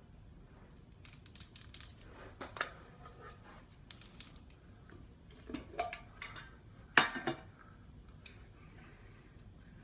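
Scattered short clicks, crackles and light clatter in small clusters, the loudest about seven seconds in.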